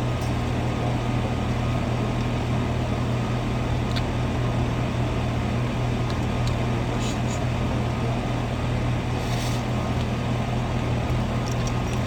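Steady low hum and whir of running air-conditioning equipment, with a few faint clicks and taps.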